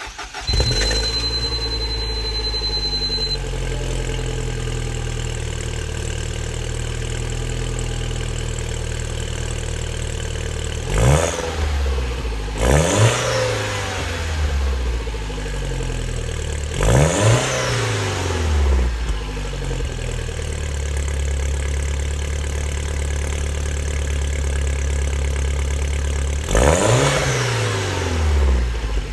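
Straight-piped exhaust of a 2009 Mini Cooper S R56 with no catalytic converters, resonator or muffler, its turbocharged four-cylinder engine idling. The engine is blipped four times, twice in quick succession, with each rev rising sharply and falling back to idle.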